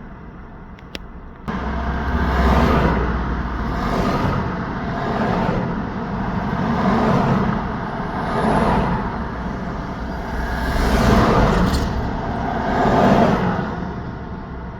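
Road traffic: a steady stream of vehicles passing one after another, each swelling and fading within a second or two, over a deep engine and tyre rumble. The sound jumps up abruptly about a second and a half in, out of quieter road noise.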